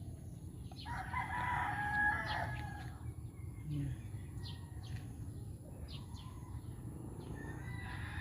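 A rooster crowing: one long drawn-out crow about a second in, and another starting near the end.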